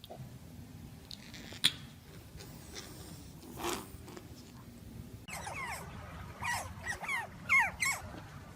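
A dog whining in a run of short, high cries that slide down in pitch, about two a second, starting about five seconds in. Before that there is only a faint low hum and a single sharp click.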